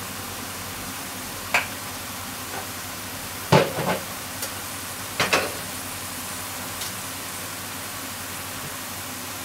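Bean sprouts and shimeji mushrooms sizzling steadily in a frying pan, with a few short sharp sounds on top, the loudest about three and a half seconds in.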